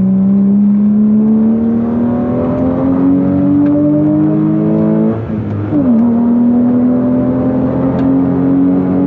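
Porsche Boxster S 3.2-litre flat-six engine accelerating, its pitch climbing steadily, then dropping at a gear change about five seconds in and climbing again.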